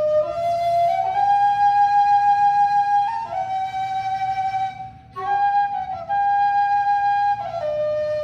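Low whistle playing a slow melody of long held notes, with a short break for breath about five seconds in.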